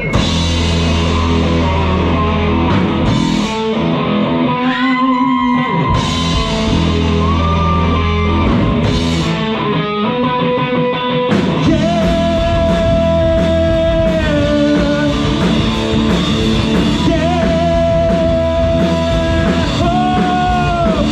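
Live rock band playing a song: electric guitar lines over bass and drums, with the cymbals and the full band filling in about eleven seconds in.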